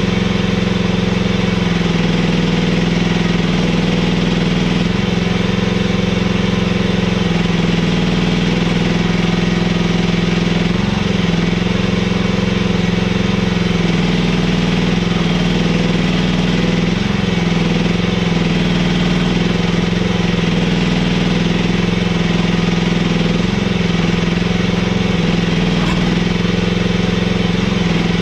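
Mini excavator engine running steadily, its note shifting slightly every few seconds as it works.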